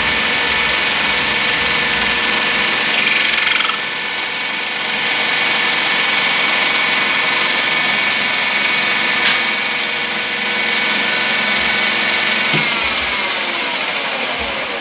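Lathe running steadily with a machining hum. Near the end its pitch falls as the spindle spins down.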